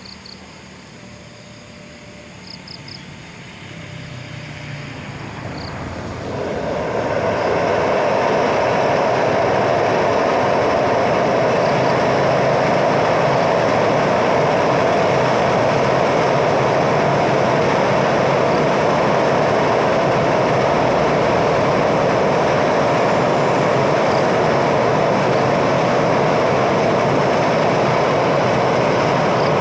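Train approaching and running across a railway bridge: the noise of its wheels on the rails grows over the first seven seconds, then holds as a loud, steady rumble.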